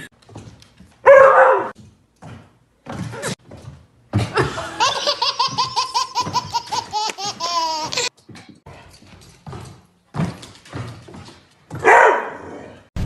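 Dog barking: a sharp bark about a second in and another near the end. In between, a person laughs in a long run of quick pulses lasting about four seconds.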